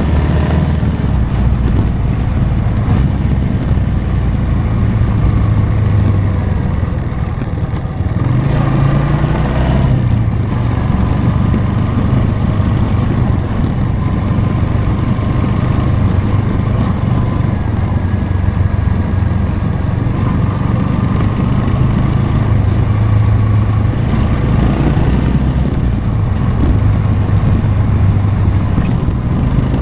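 Motorcycle engine running while riding, a steady low engine note. About eight seconds in the level dips briefly and the note then climbs again.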